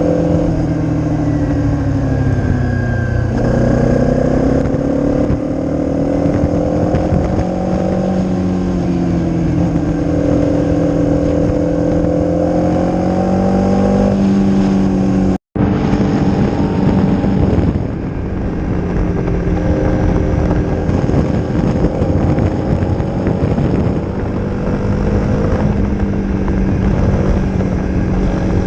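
Honda CRF250's single-cylinder four-stroke engine through an aftermarket Leo Vince exhaust, running on the move, its pitch rising and falling with throttle and gear changes, over wind noise. The sound drops out for an instant about halfway through.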